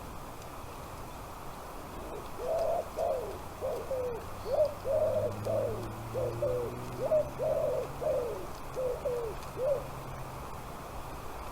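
A bird giving a quick run of about fifteen short, low calls, roughly two a second, for about seven seconds and then stopping.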